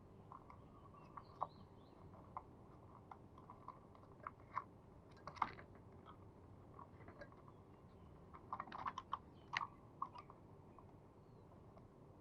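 Faint, scattered small clicks and taps, bunched together about two-thirds of the way through, over a low steady hum. No dove cooing is heard.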